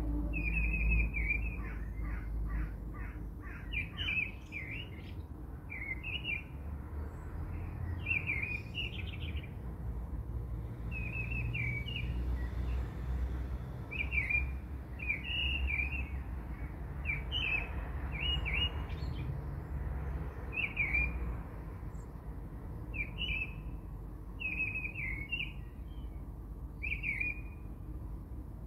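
Small bird chirping over and over, short twittering calls every second or two, over a low steady rumble.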